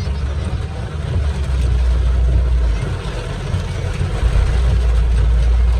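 Inside a moving car in heavy rain: a steady low rumble of the car and its tyres on the road under an even hiss of rain.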